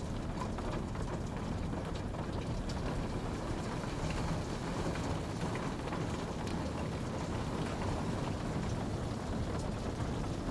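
Steady rain falling, an even hiss and patter weighted toward a low rumble, with faint scattered drop ticks on top.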